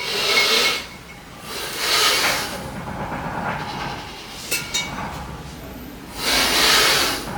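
A person exhaling forcefully three times through the lips while lifting, each breath a loud hiss about a second long, with a couple of sharp clicks a little after the middle.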